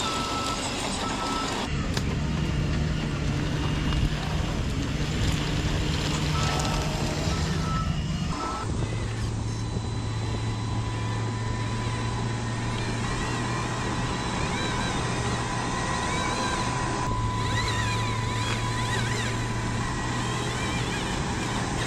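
Radio-controlled construction machines running with a steady motor hum that drops in pitch partway through, and intermittent reversing beeps near the start and again before the hum changes.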